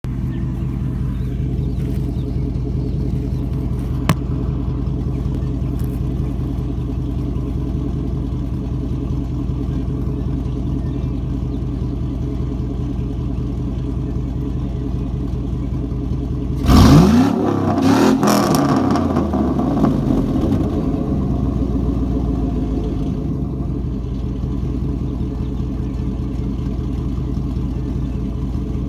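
A GM 5.3-litre V8 with a straight-piped exhaust idling steadily. It is blipped twice in quick succession about seventeen seconds in, the pitch rising sharply and falling back, then settles back to idle.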